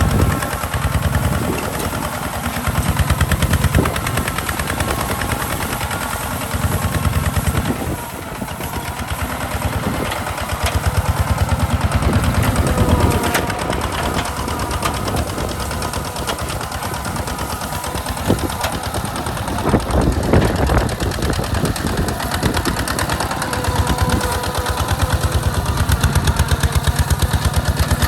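Hinota HG Gold 155 DI tractor's diesel engine running under load while plowing, a rapid, even stream of exhaust beats that swells and eases in loudness.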